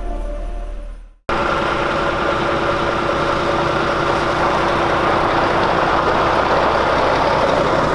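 Music fades and cuts off about a second in, then an HGV lorry's diesel engine runs steadily, a constant engine noise with a low rumble and a steady hum.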